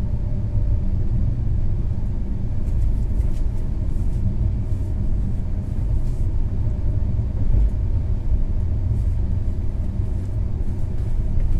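Steady low rumble of a Shatabdi Express passenger coach running on the rails, heard inside the coach, with a few faint ticks at times.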